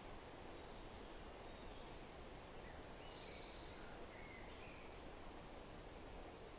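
Faint, steady rushing hiss of outdoor nature ambience, with a few faint bird chirps about halfway through.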